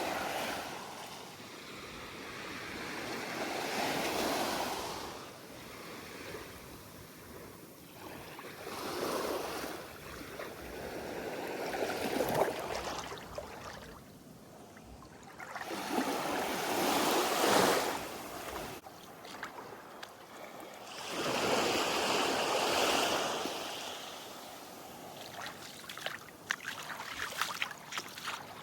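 Sea waves washing in, the surf swelling and fading every four to five seconds, with a scatter of small crackles near the end.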